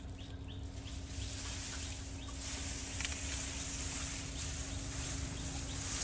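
A few faint short bird chirps over a steady high hiss and a low hum.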